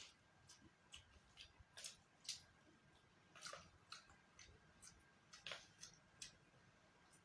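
Faint, scattered soft clicks and small handling noises, about a dozen at irregular intervals, over near silence.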